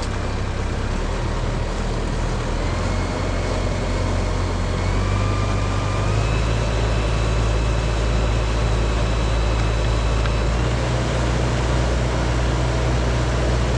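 Tractor engine running steadily under load, driving a PTO manure pit agitator; its engine speed steps up about five seconds in and holds there.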